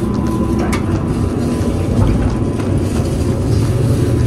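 Steady low rumble of a JR Kyushu 787 series limited express train, heard from inside the carriage, with a light click about a second in.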